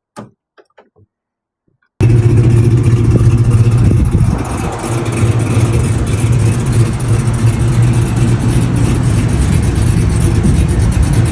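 Car lift's electric hydraulic pump motor starting suddenly about two seconds in and running steadily with a loud hum, raising a car. A few faint clicks come before it.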